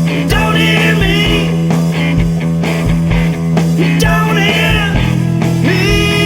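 Rock band playing an instrumental passage: electric guitar lead lines with bent notes over bass and a steady kick drum beat, settling into a long held guitar note near the end.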